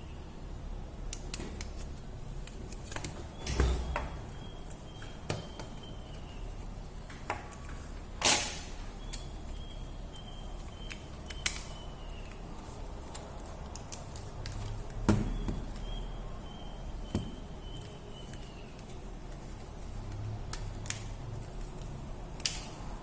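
Scattered sharp clicks and knocks of small hard objects being handled and set down, the loudest about a third of the way in. A faint high chirping comes three times in short falling runs.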